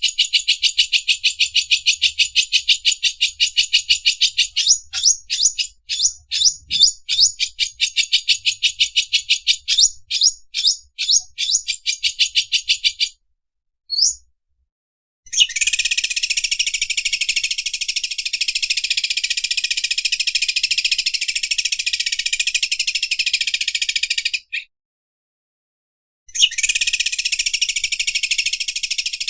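Cucak ijo (green leafbird) singing its 'overlock sewing machine' song: a fast run of short, sharp chirps for about thirteen seconds, then a dense, continuous mechanical-sounding rattle held for about nine seconds, which stops and starts again near the end.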